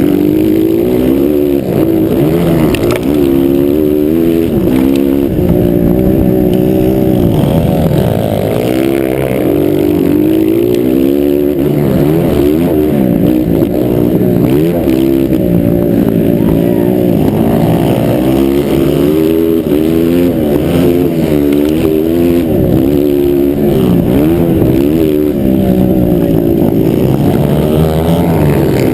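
Several motocross dirt bikes racing, their engines revving up and dropping back again and again, overlapping one another, loud and continuous.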